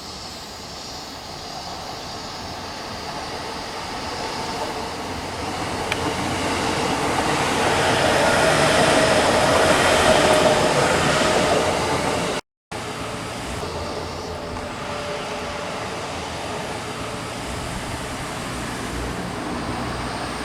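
Electric train running past on the line, growing louder to a peak a little before halfway with a faint steady whine in the noise. The sound drops out for a moment just past halfway, then steady running noise goes on.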